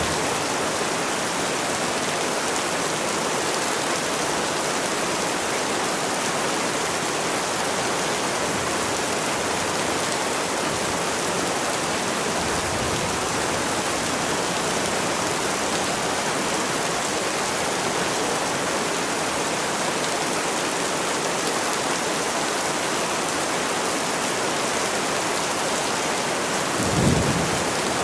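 Steady, even rainfall hissing without a break, with one short low-pitched thump about a second before the end.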